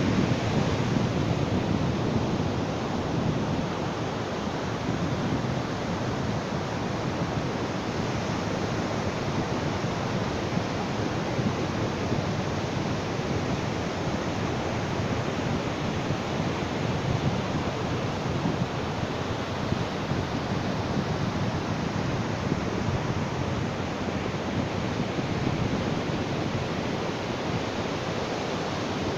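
Ocean surf washing on a beach in a steady, continuous rush of noise. A swell that is a little louder at the start eases off within the first few seconds.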